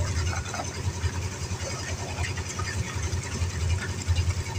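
An engine running steadily at idle-like speed, with a low, even throb.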